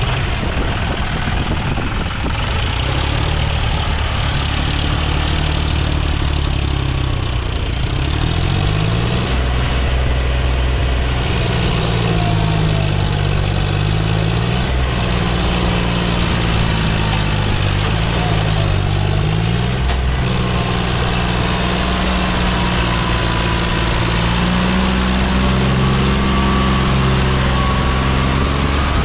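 John Deere tractor's diesel engine running continuously. Its pitch rises and falls several times in the middle as the revs change, then it holds steadier.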